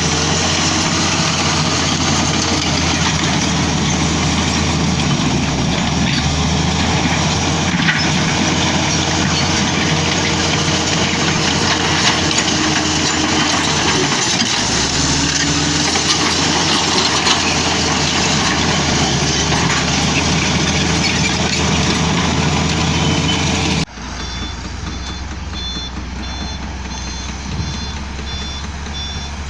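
Heavy diesel construction machinery running steadily and loudly. About 24 s in the sound drops abruptly to a quieter engine hum, with a reversing alarm beeping about twice a second.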